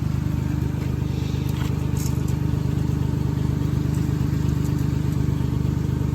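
Pickup truck engine idling steadily with an even, fast low pulse.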